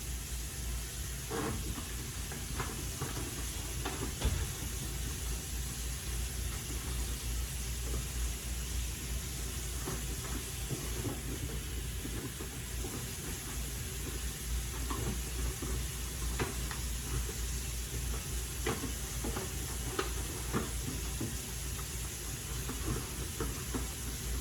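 Kitchen tap running warm water into a pan, a steady hiss with scattered light knocks.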